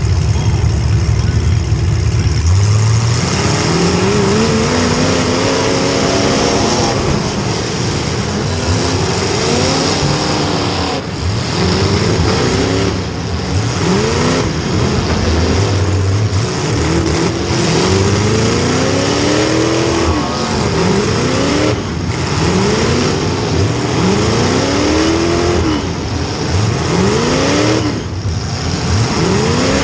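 Small-block Chevy V8 of a demolition derby car: a steady low rumble at first, then, from about two seconds in, revving up and dropping back again and again, a rising engine pitch every second or two as the car is driven hard.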